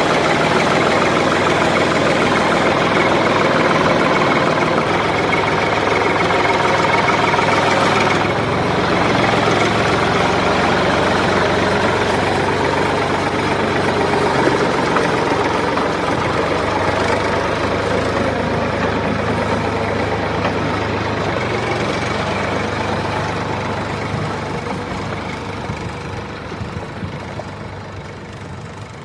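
Heavy excavator engine running steadily, fading out over the last few seconds.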